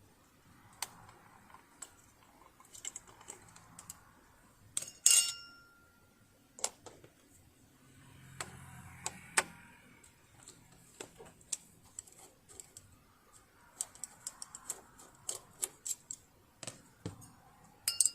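Irregular clicks and light knocks of tools and small metal parts being handled while a sewing machine is taken apart, with one sharp metallic clink that rings briefly about five seconds in.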